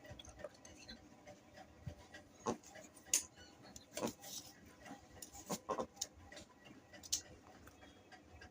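Pet duck moving about, with irregular light taps and clicks and a few short, louder sounds spaced a second or so apart.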